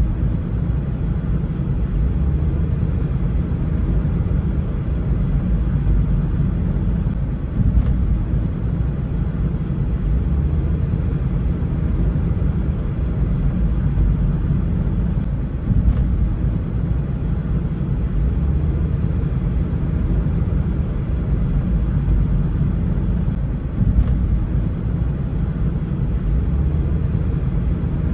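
Car driving, with a steady low rumble of road and wind noise and a few brief knocks.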